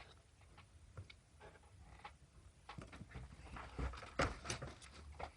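Scattered light clicks and knocks, with a few louder ones about four seconds in.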